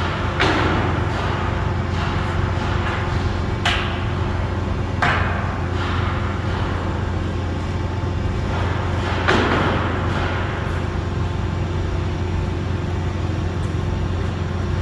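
Four irregular metal knocks or hammer blows, each ringing on briefly, over a steady low machine hum.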